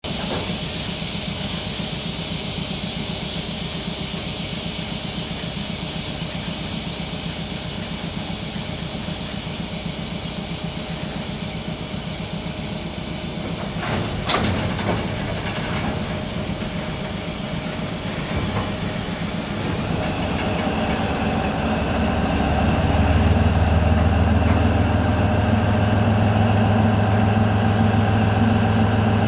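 Cicadas buzzing steadily in chorus over a diesel locomotive's engine. There is a single clank about halfway through. From about twenty seconds in, the engine's low drone builds and grows louder as the locomotive throttles up to haul the freight train.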